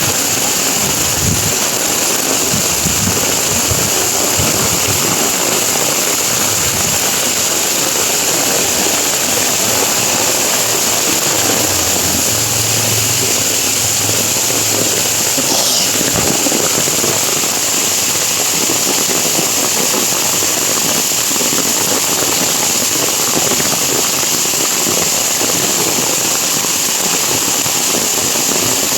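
Heavy rain falling steadily on leaves, puddles and a path, an even hiss throughout.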